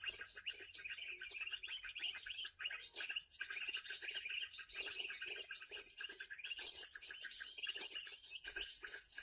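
Dense, rapid bird chirping and twittering with no pause, a lure recording of bird calls played through a cheap portable speaker.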